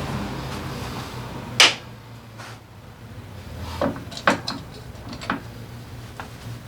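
Hand tools and metal engine parts being handled: scattered clicks and knocks, the sharpest about one and a half seconds in, then several lighter clinks.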